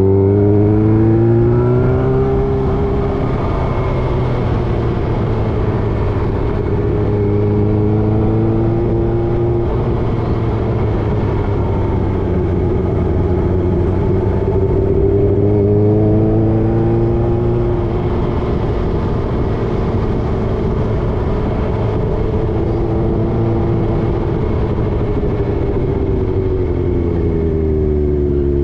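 Motorcycle engine running on the road, its pitch rising and falling several times as it speeds up and eases off, over a steady rushing noise. The pitch drops quickly near the end.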